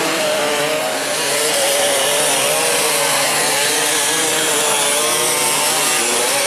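Enduro dirt bike engines revving hard with a buzzy, high-pitched note whose pitch keeps rising and falling with the throttle.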